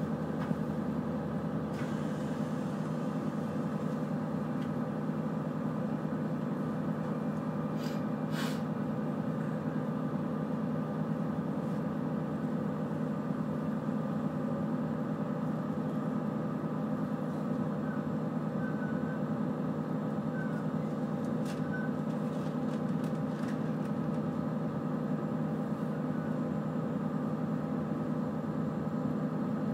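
Steady hum and rumble inside a moving passenger train carriage, with a couple of faint clicks about eight seconds in.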